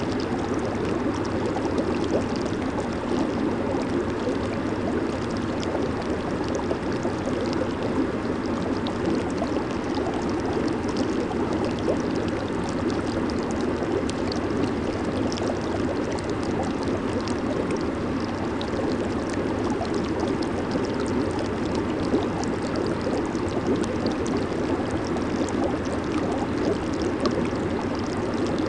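Jacuzzi water churning and bubbling steadily from the jets, an even rushing wash with a constant fizz of bursting bubbles.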